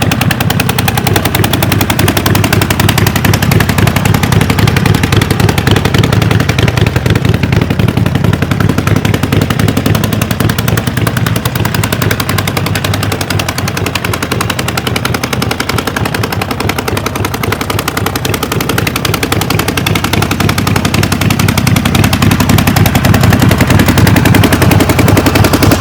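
Harley-Davidson XL 1200 Nightster's air-cooled 1200 cc V-twin running, its exhaust a steady stream of rapid, even pulses. It dips a little in loudness midway and grows louder again near the end.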